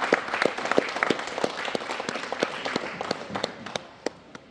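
Audience applauding for an award winner, many hands clapping, fading away over the last second or so.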